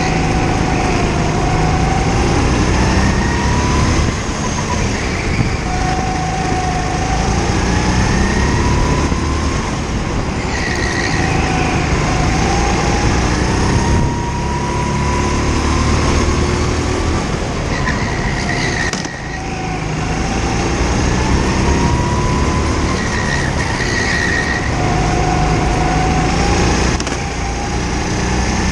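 A go-kart's small engine heard from on board, its pitch climbing over a few seconds as it accelerates, then dropping back as the driver lifts off for a corner. This repeats about every three to five seconds through the lap.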